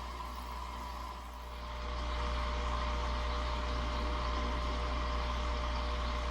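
Steady machine-like hum and hiss, with a few constant tones, growing louder about two seconds in and then holding steady.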